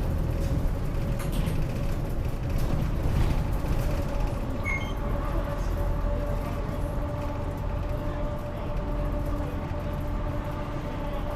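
Inside a city bus running along just after pulling away from a stop: steady engine and drivetrain rumble with a constant whine. A short high squeak about five seconds in.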